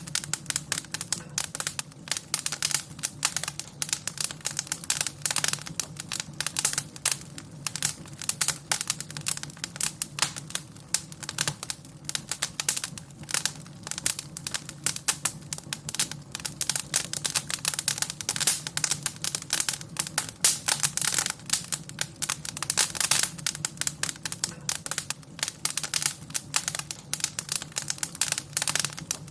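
Wood fire in a fireplace crackling and popping continuously, with dense irregular snaps over a low steady rumble of the flames.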